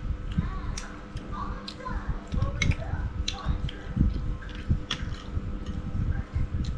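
Eating sounds: chewing and wet mouth smacks, with a few sharp clicks of a spoon and fork against a plate of rice.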